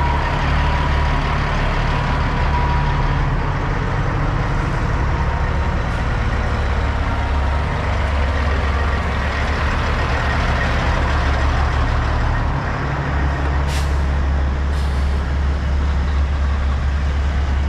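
Heavy diesel truck engine idling steadily with a deep rumble, with two short hisses about a second apart near the end.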